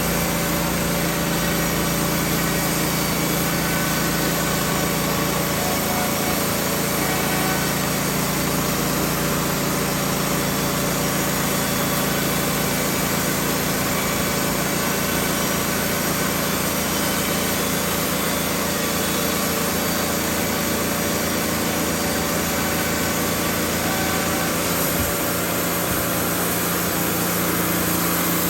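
Wood-Mizer LT15 band sawmill running steadily as it saws pine boards. Its low tone shifts slightly about six seconds in and again near the end.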